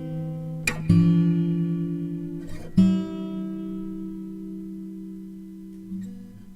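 Music: acoustic guitar chords strummed twice, about a second in and again near three seconds in, each left to ring and slowly fade.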